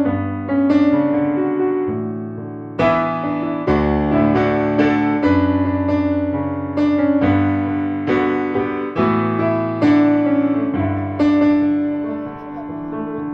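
Background piano music: a gentle melody of struck notes over held bass notes, each note fading after it is played.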